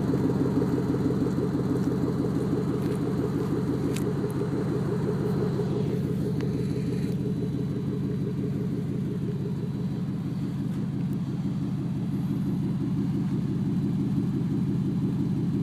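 V8 of a 2006 Chevrolet Monte Carlo SS idling through aftermarket Loud Mouth II mufflers: a steady, pulsing exhaust rumble that settles slightly quieter about six seconds in.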